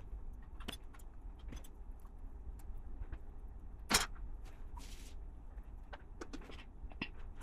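Plastic LEGO pieces clicking and clattering as they are handled and pressed together, with a few scattered clicks and one sharp click about four seconds in, followed by a brief rustle.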